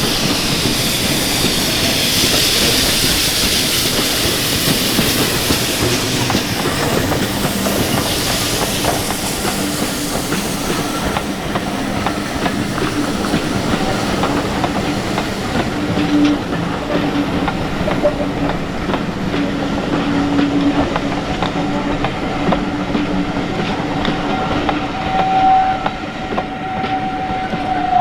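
Steam-hauled train running by, its wheels clicking steadily over the rail joints. A hiss in the upper range fades away over the first ten seconds or so, and steady whining tones come through in the second half.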